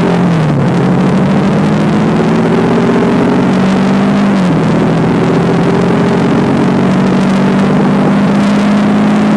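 Motorcycle engine running under way, its note climbing slowly and then dropping sharply, about half a second in and again about four and a half seconds in, over a steady rush of wind noise.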